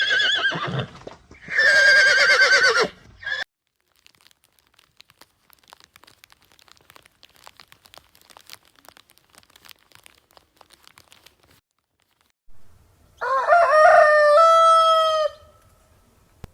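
A horse whinnying twice with a quavering pitch, cut off after about three seconds. Then comes a stretch of faint scattered clicks, and about thirteen seconds in a rooster crows once, a rising note breaking into held stepped notes.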